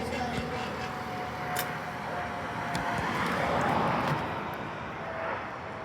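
A passing vehicle, its noise swelling to a peak about three and a half seconds in and then fading, over a steady high whine, with a few faint clicks.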